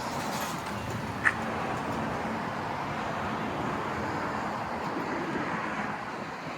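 Steady vehicle and road traffic noise, with a brief high chirp a little over a second in.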